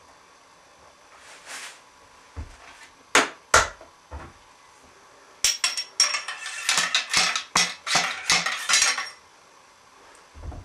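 Sharp metallic clinks and clatters: a few single knocks spaced about half a second apart, then a quick clattering run of a dozen or more lasting about three and a half seconds.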